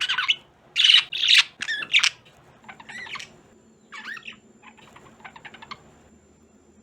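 Pet budgerigars calling: several loud, harsh squawks in the first two seconds, then softer chattering with quick clicking notes that fades out around six seconds in.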